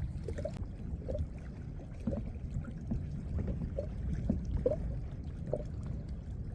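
Water lapping and gurgling against a kayak's hull: small irregular plops over a low steady rumble.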